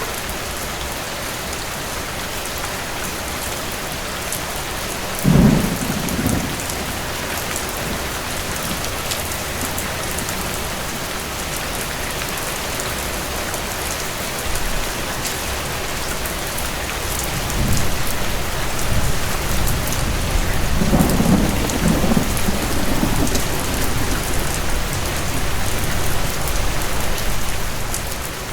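Steady rain with thunder: a sudden sharp clap about five seconds in, then a longer rolling rumble that builds from about the middle and runs on toward the end.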